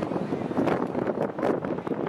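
Several smart fortwo city cars driving about at low speed, their small engines running, with wind noise on the microphone.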